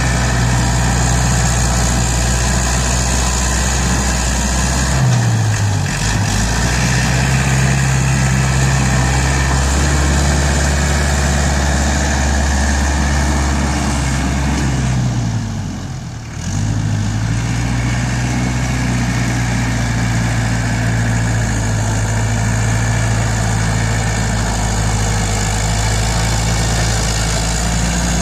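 ISEKI NT554 tractor's diesel engine running steadily, its pitch dipping and coming back up twice, about five seconds in and again about fifteen seconds in.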